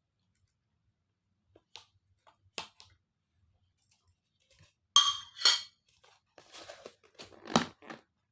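Dishes and utensils being handled. There are a few faint ticks, then two bright ringing clinks about five seconds in, followed by softer scraping and rustling and a single knock near the end.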